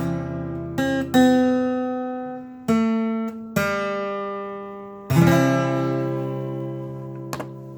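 Acoustic guitar playing the closing chords of a song: a few separate strums, each left to ring and fade, then a final chord struck about five seconds in and left to ring out.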